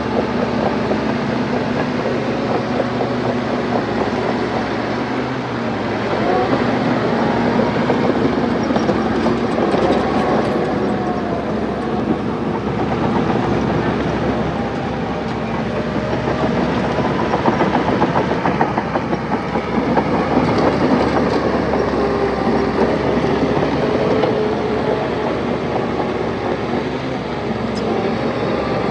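Crawler bulldozer working: its diesel engine runs under load with the pitch rising and falling, over a steady rapid clanking of its steel tracks.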